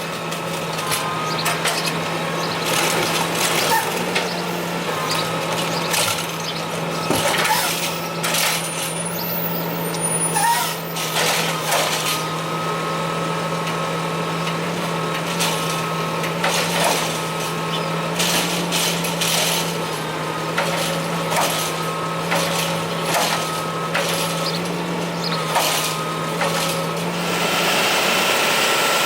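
Curbtender automated side-loader garbage truck running, with a steady engine tone and a thin whine, and many clanks and knocks as the arm picks up and dumps carts. The engine gets louder near the end.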